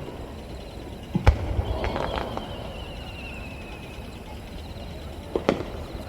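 Aerial firework shells bursting: a sharp bang about a second in, a couple of smaller cracks just after, and another bang near the end, with a faint falling whistle in between.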